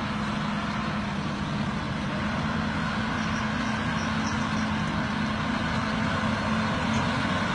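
Wheeled forestry machine's diesel engine running at a steady speed, a constant drone.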